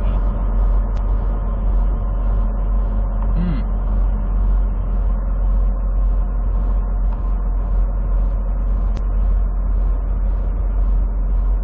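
Semi truck's diesel engine running, heard from inside the cab as a steady low rumble, with a faint hiss that pulses evenly about one and a half times a second.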